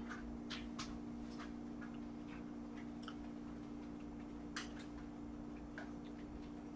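Soft, irregular clicks of chewing and mouth sounds while eating pizza, over a steady low hum.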